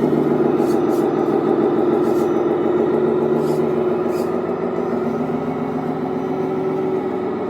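Steady truck engine sound from a radio-controlled model Scania truck, running evenly and slowly getting a little quieter.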